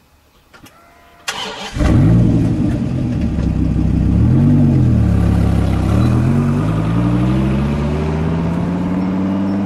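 Dodge Viper V10 starting up, giving two short revs, then pulling away with its engine pitch climbing steadily.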